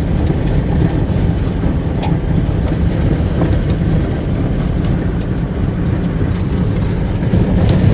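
Steady engine and road rumble of a moving car, with one sharp click about two seconds in.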